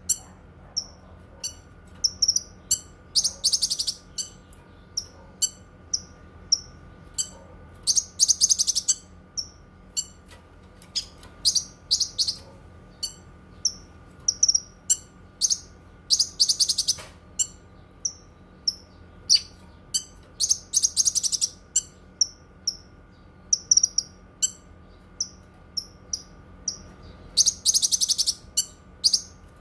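Cucak kinoi songbird singing: a stream of short, sharp high chirps broken every few seconds by a loud, buzzy rattling trill lasting about a second.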